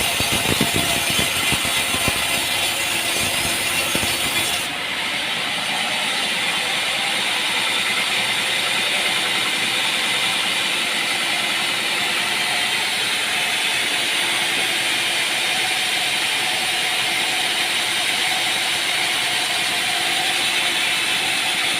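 Sawmill machinery running with a steady mechanical noise. About five seconds in, the sound changes abruptly, losing its deep rumble and some of its hiss, and then runs on steadily.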